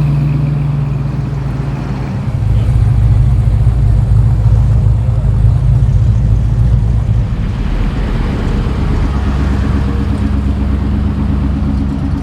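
Engines of classic cars running as they cruise slowly past, one after another. A deep engine grows louder about two seconds in, and another with a higher, pulsing note takes over about eight seconds in.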